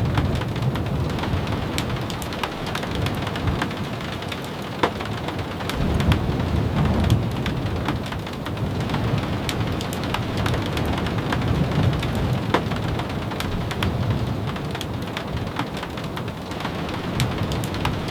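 Steady rain with many scattered sharp ticks, under a low rumble of thunder that swells about six seconds in and again around twelve seconds.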